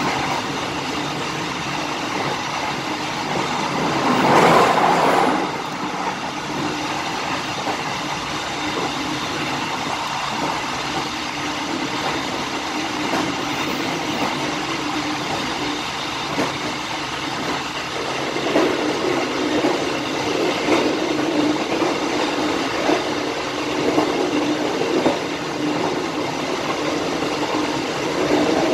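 Passenger train running along the track: a steady rumble of wheels on rails, with a brief loud rush about four seconds in and sharper wheel clacks over rail joints in the second half.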